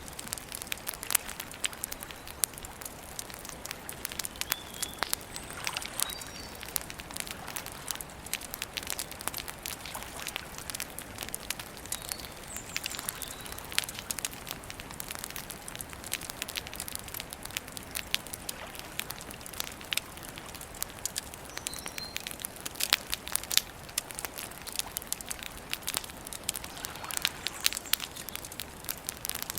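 Wood campfire burning steadily, crackling with a constant run of sharp pops and snaps of varying loudness.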